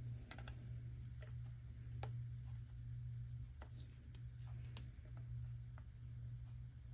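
Scattered light clicks and ticks, irregularly spaced, of hands working the metal tabs on the Uconnect radio unit's housing, over a steady low hum.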